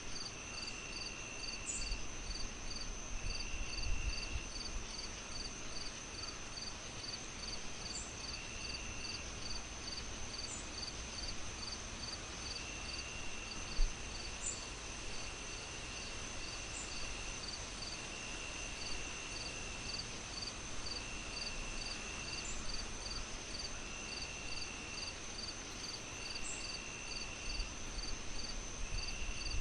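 Night insects chirping in a steady layered chorus over a soft even hiss. A continuous high trill runs with a regular pulse of about three chirps a second, and lower trills come and go, each about a second long. A single soft knock comes about fourteen seconds in.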